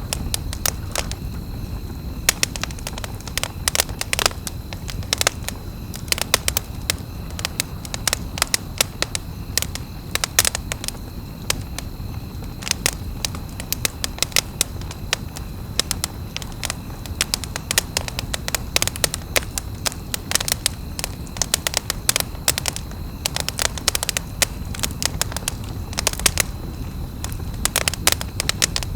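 Wood campfire crackling, with frequent irregular sharp pops over a steady low rumble of the flames.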